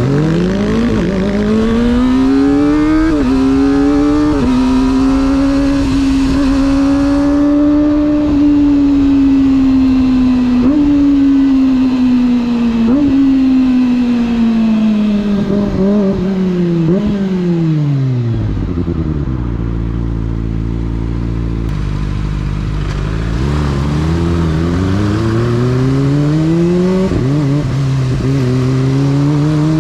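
Motorcycle engine accelerating through the gears, its pitch climbing with short dips at each upshift, then falling steadily as the bike slows to a low near-idle note, before pulling away and climbing through the gears again.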